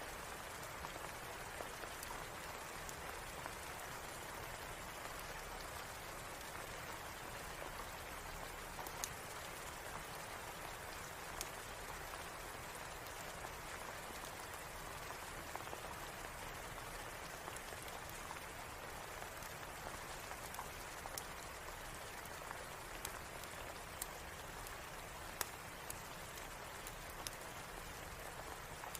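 Steady rain falling, an even hiss with scattered sharp clicks here and there.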